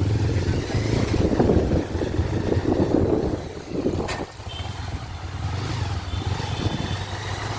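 Motorcycle riding through city traffic: a low, steady engine hum under rushing road and wind noise, with one sharp click about four seconds in.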